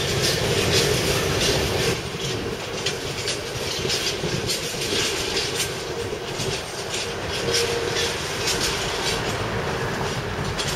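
Freight train of covered hopper wagons rolling past on a curve, the wheels clicking irregularly over rail joints and pointwork over a steady rumble, with a faint wheel squeal at times.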